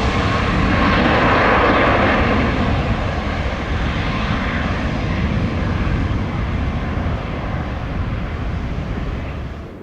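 Airliner engines running loud as an aircraft passes the runway side, loudest a second or two in and slowly easing off, then cut off abruptly at the end.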